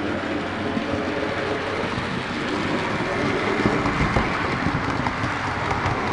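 OO gauge model train running on the layout's track: a steady rumble with many small clicks from the wheels on the rails.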